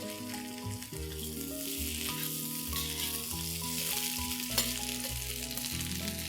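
Diced onion, bell peppers and ginger-garlic paste sizzling as they are sautéed in hot oil in a wok, a steady hiss, with background music playing under it.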